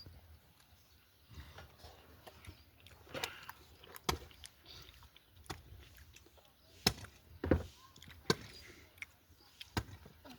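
A handful of sharp knocks and clicks at irregular intervals, the loudest two close together about two-thirds of the way through.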